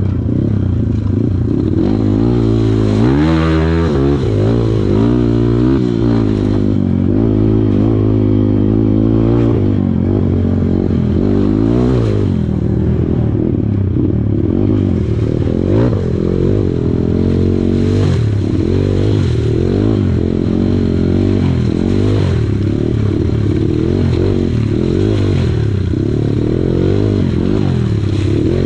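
Kawasaki KLX140 dirt bike's single-cylinder four-stroke engine running hard, its pitch rising and falling every second or two as the throttle is worked, with a few brief knocks.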